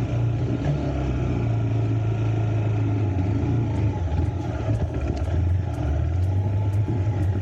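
Motorcycle engine running at low, nearly steady revs, pulling the bike through deep wet clay mud.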